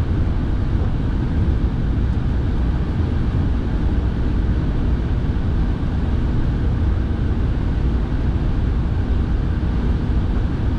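Steady cabin noise of a car being driven: low engine and tyre rumble with the heater fan blowing, loud and unchanging throughout.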